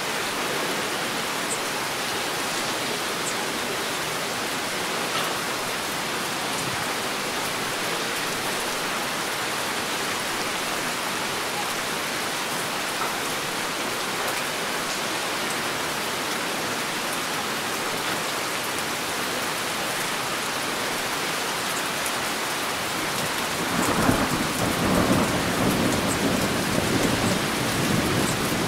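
Heavy rain falling steadily, with thunder rumbling in about four-fifths of the way through and growing louder toward the end.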